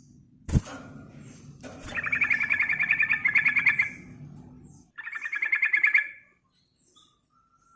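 Sooty-headed bulbul (trucukan) giving fast, rattling chatter calls in two bursts: a long one of about two seconds, then a shorter one about a second later. A sharp knock sounds about half a second in.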